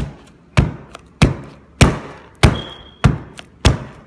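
A cardboard box of cornstarch being beaten flat: sharp thuds in a steady rhythm, about one every 0.6 seconds, seven in all.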